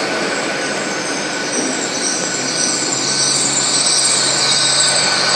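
Nine-coach Great Western Railway Intercity Express Train moving along the platform: a steady rumble of wheels and running gear with a low hum. A high-pitched hiss from the wheels grows louder about three seconds in.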